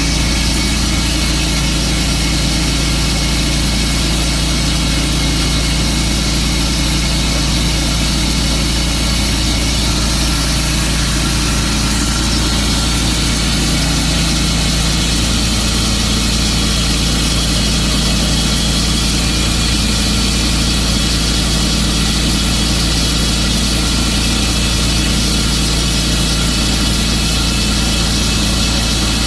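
Tru-Cut sawmill's engine running steadily, with a constant low drone and high hiss.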